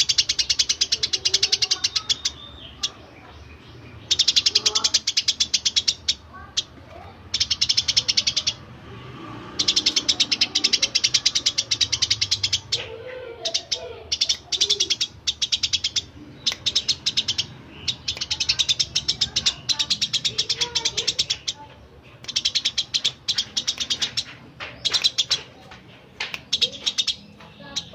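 Eurasian tree sparrows chirping in rapid, dense runs lasting a few seconds each, broken by short pauses.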